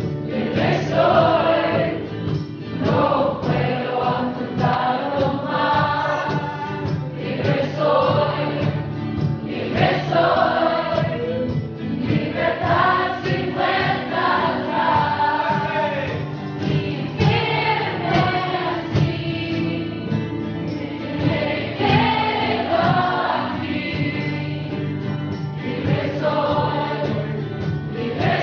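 Music: a group of voices singing together over steady sustained instrumental chords.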